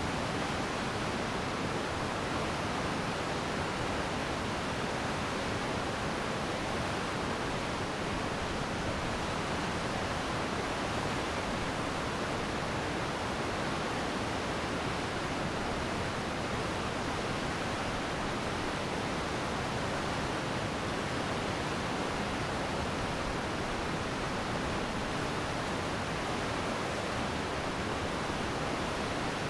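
Glacier meltwater stream rushing steadily over rocks, a constant full-range rushing with no breaks.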